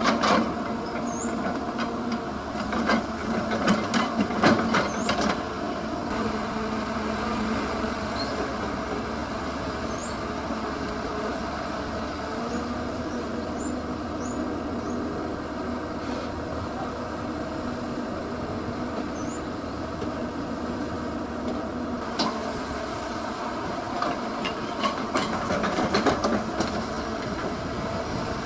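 Heavy diesel engine of an excavator running steadily, with clusters of sharp metal clanks about three to five seconds in and again near the end.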